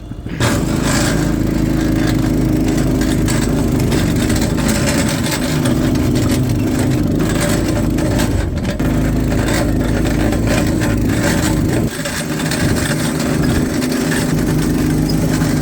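Vehicle engine of a John Deere machine running hard at steady high revs as it climbs an icy, snow-covered hill, with a brief dip in power about twelve seconds in.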